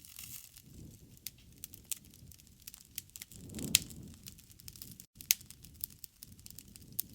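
Wood campfire crackling: irregular sharp pops and snaps over a low, soft rumble of flames. The loudest pops come a little past the middle and again about five seconds in.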